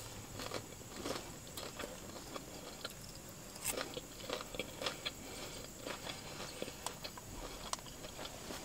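A person chewing food close to the microphone: a steady run of small, irregular mouth clicks and smacks.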